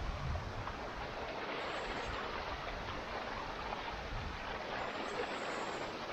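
Steady rush of a mountain stream and waterfall.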